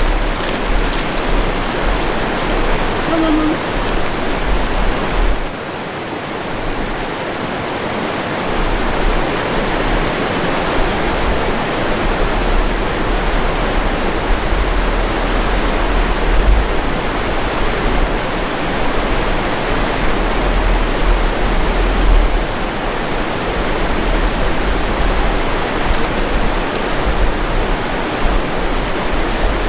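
Mountain stream water rushing steadily, a constant loud hiss of running water; it drops a little about five seconds in, then carries on.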